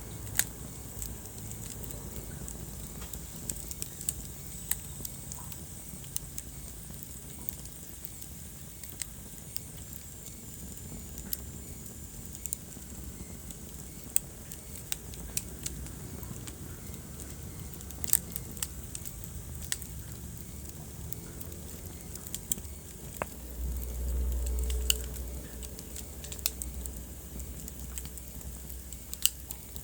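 Wood fire crackling in a fireplace, with frequent scattered sharp pops and snaps over a steady low rumble. Late on, a deeper rumble swells for a couple of seconds.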